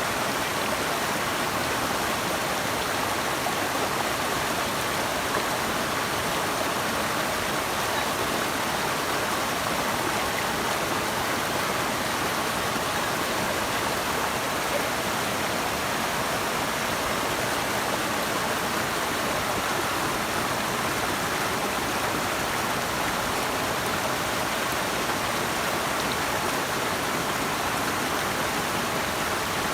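Flowing water rushing steadily and evenly, with no change or break.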